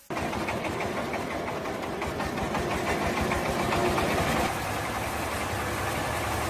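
Old diesel engine running steadily with a fast, even knocking beat. It cuts in abruptly at the start.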